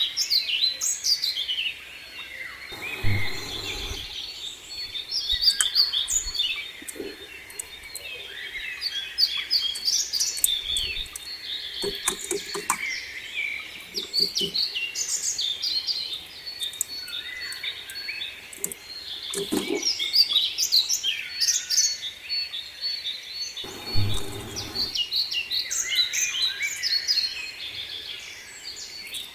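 Several small songbirds chirping and singing at once, a dense run of quick high notes and short trills, with two brief low rumbles, one a few seconds in and one near the end.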